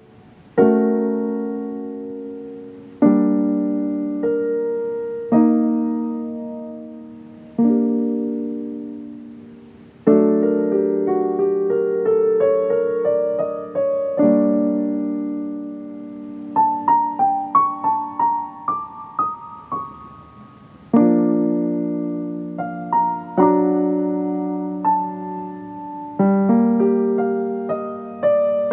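Slow solo piano music: chords struck about every two seconds, each ringing out and fading, with a quicker passage of single notes climbing higher about halfway through.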